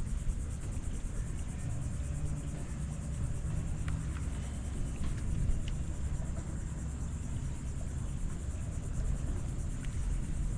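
Wind buffeting the microphone: a low, uneven rumble, with a few light clicks around the middle.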